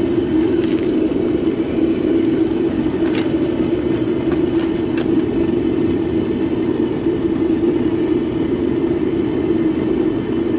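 Propane burner running steadily in a homemade melting furnace, a constant loud hum over a rushing roar of the flame, while aluminum melts inside. A few faint clicks come through a few seconds in.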